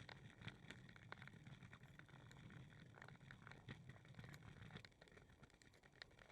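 Faint walking noise: scattered light clicks and scuffs over a low rumble, which weakens about five seconds in.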